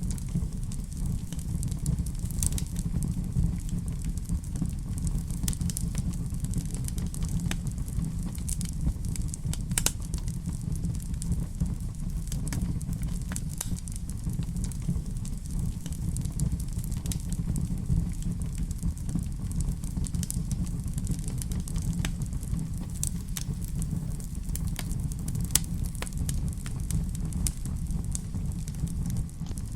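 Wood fire crackling in a fireplace: a steady low rumble with many irregular sharp pops and snaps scattered throughout.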